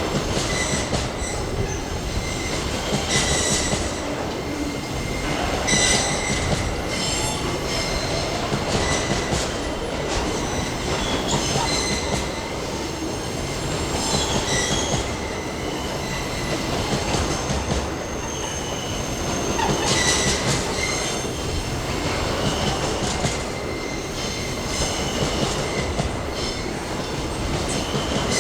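Empty freight wagons of a pulp train rolling past steadily, steel wheels clattering and squealing in short high bursts every second or two over a continuous rumble.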